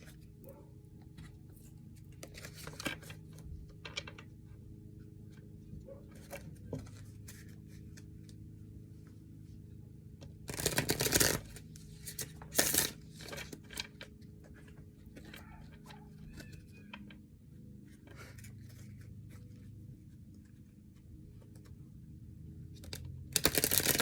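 Tarot cards being shuffled and handled: scattered soft clicks and card slaps, with two louder rustling bursts of shuffling about halfway through and another near the end.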